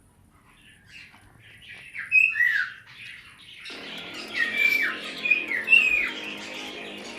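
Aviary flock of cockatiels and budgerigars calling: a run of loud squawks, each dropping sharply in pitch, over softer chattering, starting about two seconds in and repeating every half second or so.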